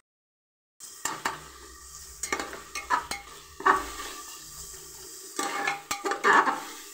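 Onion and spice masala sizzling as it fries in oil in a pressure cooker, with a metal spatula stirring and scraping against the pot in irregular strokes. It starts just under a second in.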